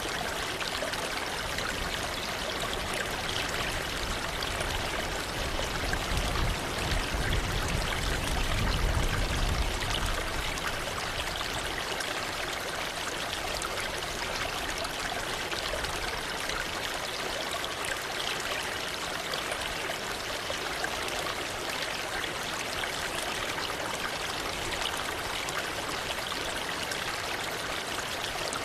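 Waterfall: a steady rush of falling, splashing water, with a low rumble that swells for a few seconds near the start.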